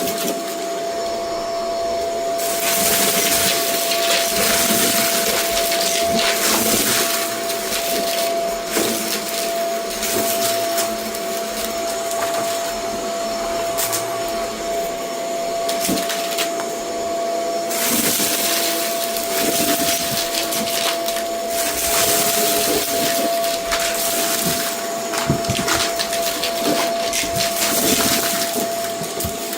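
Vacuum cleaner running with a steady motor whine, pushed back and forth over a rug; the rushing hiss swells and fades with each stroke, with scattered small ticks.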